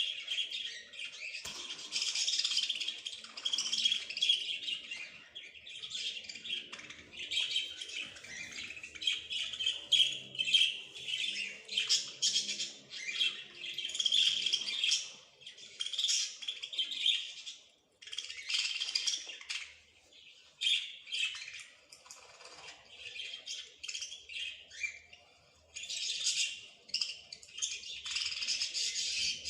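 Small songbirds chirping and twittering almost without a break, several calls overlapping, high-pitched, with a couple of short lulls.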